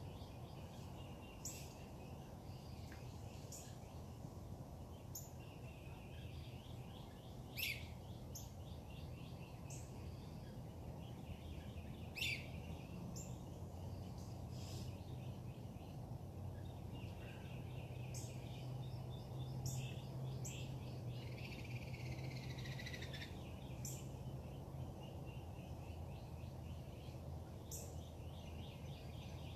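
Several birds singing and calling: repeated short chirps and fast trills, with a few sharp downslurred whistles, over a steady low background rumble.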